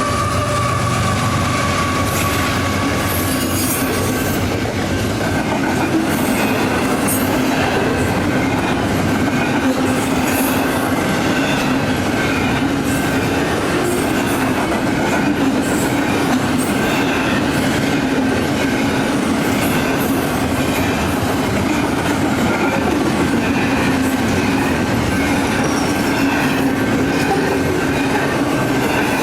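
Union Pacific freight train rolling past a grade crossing: a steady, loud rumble of cars and wheels on the rail with clickety-clack. The tail of a horn blast fades out over the first few seconds.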